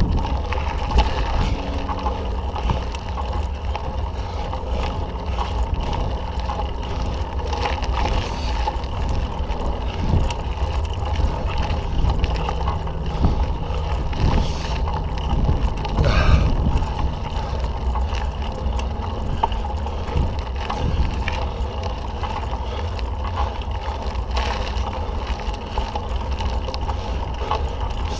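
Mountain bike being ridden on a dirt trail: wind buffeting the microphone and tyre rumble, with scattered clicks and knocks as the bike rattles over bumps.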